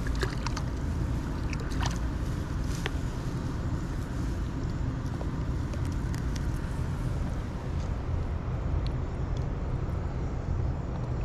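Steady rushing roar of water pouring below a dam, heavy in the low end, with a few light clicks and knocks in the first few seconds.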